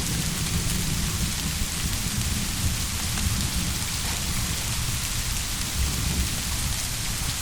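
Steady rain, with a low rumble of distant thunder running underneath.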